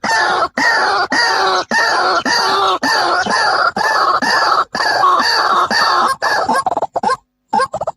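White-breasted waterhen calling, a harsh pitched call repeated about twice a second. Near the end the calls break off for about half a second, then come back faster and shorter.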